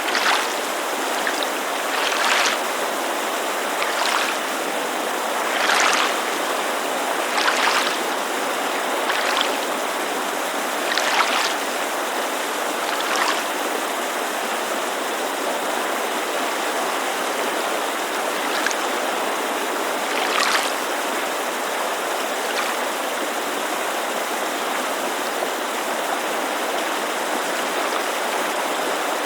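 Lake water lapping at the shore, a soft splash about every two seconds that thins out to a few near the middle and then stops. Under it runs the steady rushing white noise of a mountain creek.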